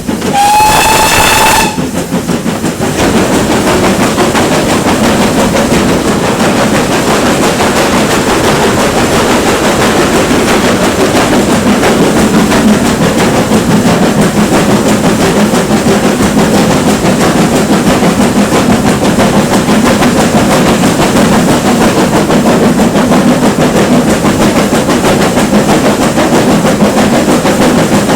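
GWR Manor-class 4-6-0 steam locomotive sounding its whistle once for about a second and a half, its pitch rising slightly. Then comes the steady sound of the steam train running.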